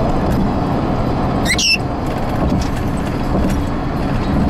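Steady road rumble inside a moving car, with one short, high squawk from a Cape parrot about a second and a half in.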